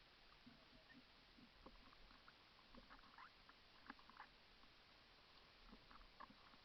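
Near silence with faint, irregular small clicks and ticks, a few bunched together about three to four seconds in.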